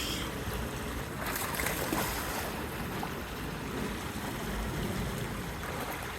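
Fast-moving creek water rushing steadily, with some wind on the microphone.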